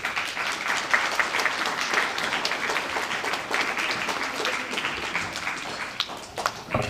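Audience applauding: many people clapping at once, thinning to a few scattered claps near the end.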